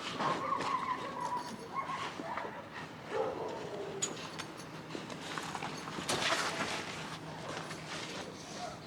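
Boat canopy being dismantled: the cover's material rustles and rubs, with drawn-out squeaks as a frame bar is worked out of its pocket, and the odd tick and clatter.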